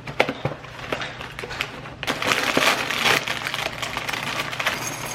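Rustling and crinkling with many sharp clicks over a steady low hum, denser and louder from about two seconds in.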